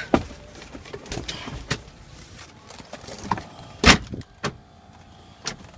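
Scattered knocks and clicks of things being handled inside a light aircraft's cockpit, with one loud knock about four seconds in.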